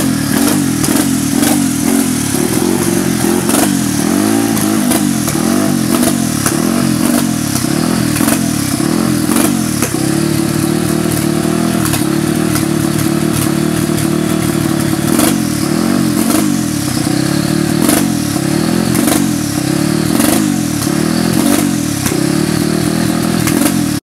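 Loud, high-revving engines of drag-racing ATVs, several running together with clattering and crackle. The sound cuts off suddenly at the end.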